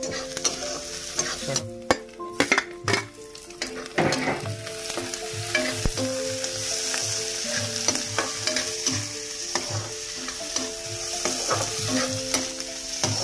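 Chopped onion, tomato and green chilli sizzling in hot oil in an iron kadhai, stirred and scraped with a spatula. A cluster of sharp scrapes and knocks of the spatula against the pan comes in the first few seconds, then the frying goes on with a steady sizzle.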